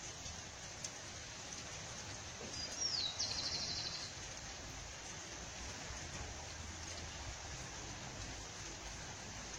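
A bird calls once over steady background hiss: a short high whistle sliding down, then a rapid high trill lasting about a second.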